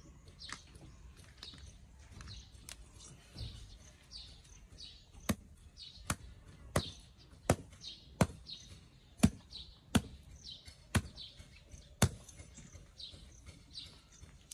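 A bird chirping over and over in short, high, falling calls. From about five seconds in, sharp knocks come roughly every 0.7 s, nine or so in a row, the loudest sounds here.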